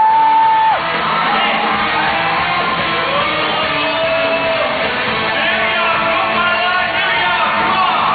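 Live pop concert music: a band plays a medley while a singer holds long notes, with shouts and whoops from the audience.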